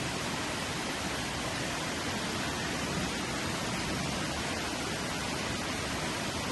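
Waterfall, a steady, even rushing of falling water.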